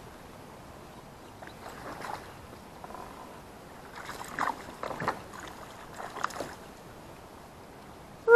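Faint water and hull sounds from a kayak on a lake: a few soft splashes and knocks while a hooked fish is brought alongside.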